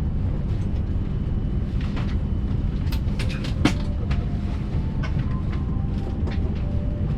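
Steady low rumble inside the passenger cabin of a Hayabusa Shinkansen running at speed, with scattered light clicks and one sharper tick a little past halfway.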